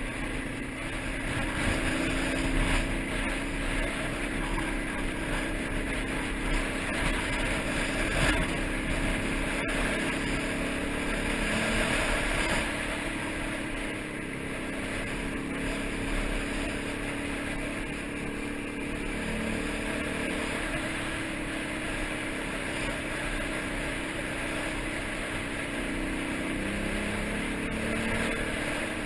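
Motorcycle engine running on the move, its pitch wavering with the throttle, under steady rushing wind and road noise.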